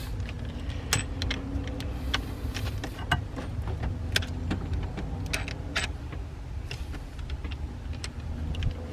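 Scattered small metallic clicks and knocks of a car battery and its hardware being worked loose by hand, over a steady low hum.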